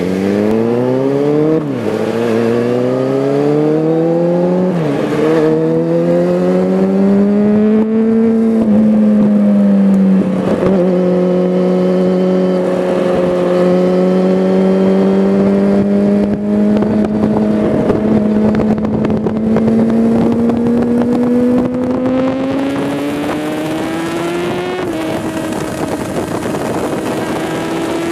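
Sport motorcycle engine heard from on board, accelerating through the low gears. The pitch climbs and drops sharply at upshifts about one and a half and five seconds in, then holds at a nearly steady note for a long stretch before climbing again. Wind noise on the microphone grows near the end.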